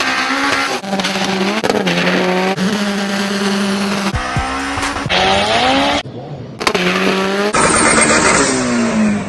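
Edited sequence of car sounds: engines running and tires squealing, in short clips that cut off suddenly about every second. The pitch holds steady in some clips and glides in others.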